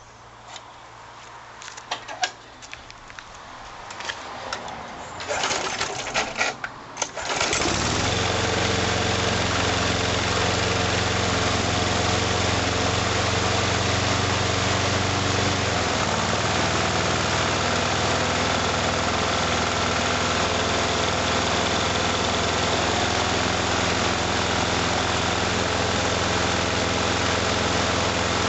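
Briggs & Stratton lawn mower engine pull-started. After several seconds of clicks and rattles it catches about seven seconds in and runs steadily, its note shifting slightly partway through.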